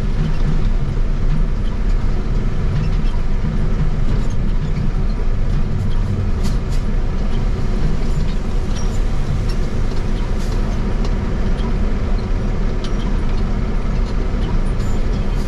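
Steady road and engine rumble of a truck driving on the highway, with a few faint ticks or rattles.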